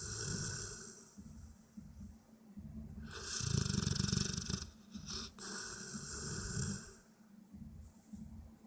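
A dog snoring, with a low rattling snore on each slow breath, every two to three seconds.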